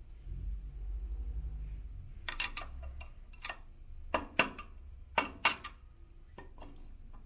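Sharp metallic clinks and taps of hand tools and metal parts being handled on an elliptical's crank assembly, the loudest coming in two quick pairs, after a short low rumble.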